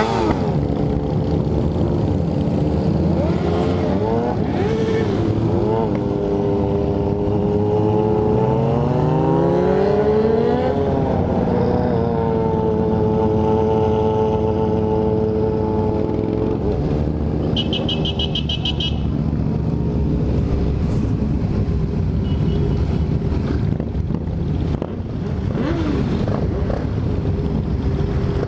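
Motorcycle engine running on the road, its pitch rising as it accelerates about a third of the way in and then holding steady at cruising speed. A short run of high beeps sounds about two-thirds through.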